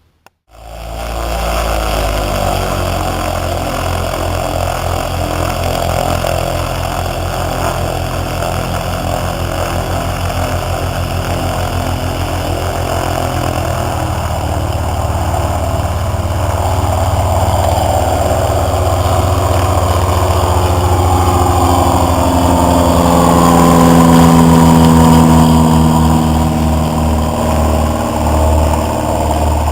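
A Cessna 152's four-cylinder Lycoming piston engine and propeller droning steadily. The drone starts abruptly, grows louder and peaks about three-quarters of the way in with the pitch falling as it passes, then eases off.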